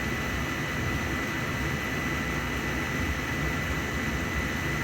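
Oil-fired boiler's burner running steadily, an even noise with a thin high tone held throughout. It is firing with too little combustion air: the analyzer reads 8% CO2 with the CO too high.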